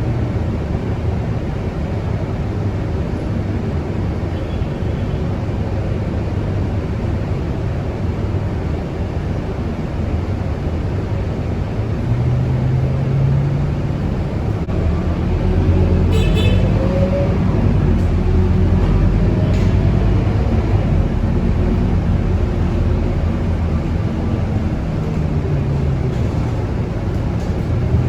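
Scania K230UB Euro 5 bus's five-cylinder diesel engine and drivetrain running on the road, the engine note climbing and dropping a few times as the bus accelerates and eases off, with a rising whine about halfway through.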